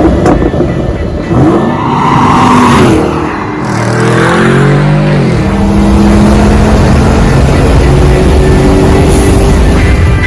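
A performance car's engine revving hard, its pitch swooping up and down several times. In the second half it holds high revs with a slowly rising pitch.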